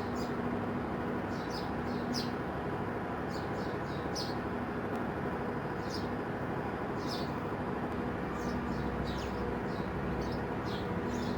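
Small birds chirping: many short, high chirps, each falling in pitch, over a steady low hum with an on-off drone.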